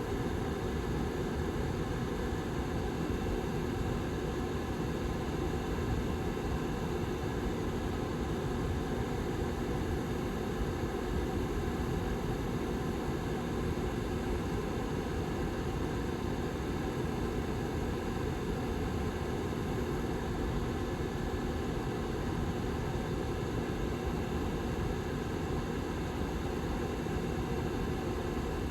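Back fan of a Lasko 755320 tower heater running steadily: an even low rushing whir with a faint steady hum in it.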